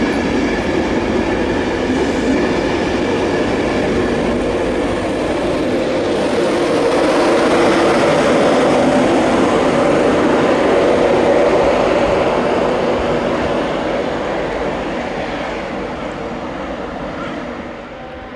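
A train of Mark 4 coaches pushed by a Class 91 electric locomotive passes close by, its wheels rumbling over the track. Steady high tones sound over the rumble in the first few seconds. The noise is loudest as the locomotive goes by about halfway through, then fades as it moves away.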